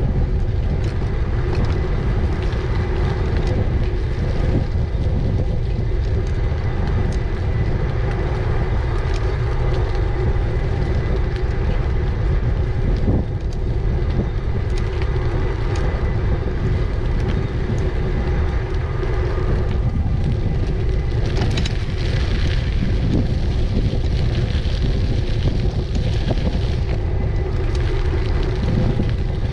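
Wind buffeting the microphone while riding an e-bike, a steady low rumble with a faint steady hum underneath. A brighter hiss rises about two-thirds of the way through and fades a few seconds later.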